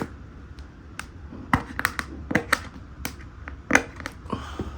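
Scissors snipping and working at a box's packaging: a string of sharp, irregular clicks and snips with some handling noise.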